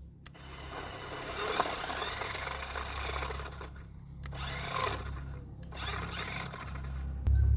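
Radio-controlled model vehicles' drive motors running under load in three bursts of a few seconds each, a rough, noisy mechanical sound.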